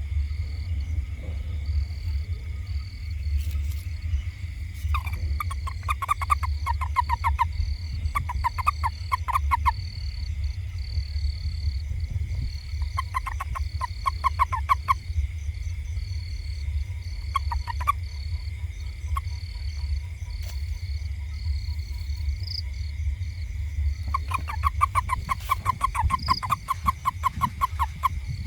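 Toad calling in about five bouts of rapid, evenly pulsed croaks, the longest near the end. Insects keep up a steady high drone, with a low rumble underneath.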